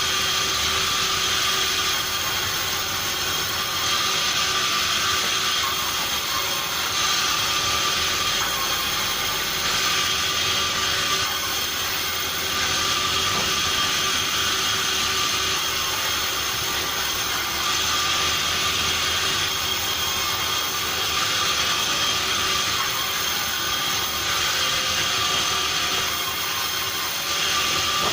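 Sawmill machinery running steadily: a constant mechanical noise with a steady high whine, swelling slightly every few seconds as acacia logs are sawn.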